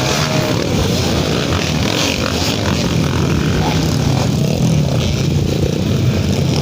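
Trail motorcycle engine running loud and steady.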